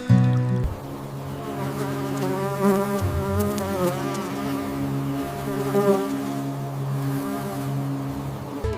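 A flying insect buzzing: a steady hum that wavers slightly in pitch.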